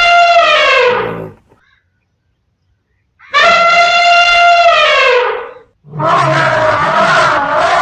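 Two long, loud elephant trumpet calls, each falling in pitch at its end, then a lion or tiger roar starting about six seconds in.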